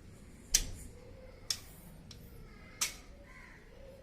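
Three short, sharp clicks, roughly a second apart, the first the loudest.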